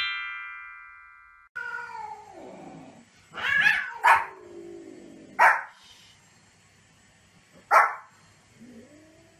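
A bright chiming jingle fades out at the start. Then a small white fluffy dog yaps sharply four times, a second or two apart, after a long animal cry that falls in pitch.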